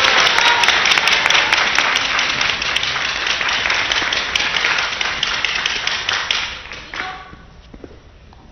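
Audience applauding and clapping in the hall. The applause dies away about seven seconds in, with a single knock as it fades.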